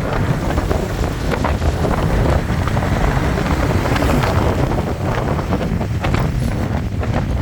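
Wind buffeting the microphone on a moving motorbike, a loud, steady low rumble with gusty bursts, over the motorbike's road and engine noise.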